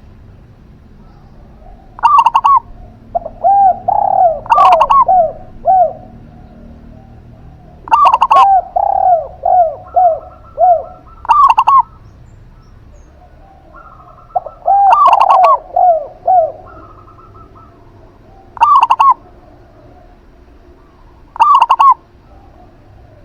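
A zebra dove and a spotted dove cooing in turn. Short, high, doubled calls alternate with lower runs of four to six quick coos, in repeated bouts a few seconds apart.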